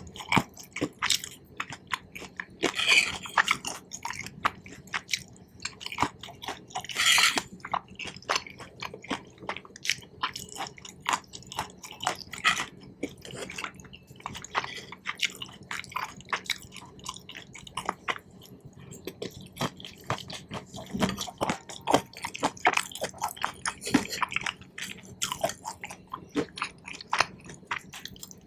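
Close-miked chewing of Korean cheese corn: irregular wet, sticky mouth clicks and smacks from chewy melted cheese and corn, with a few louder bites in between.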